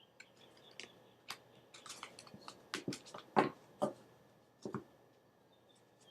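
Tarot cards being handled: a run of light clicks and taps, the loudest about three and a half seconds in, dying away about five seconds in.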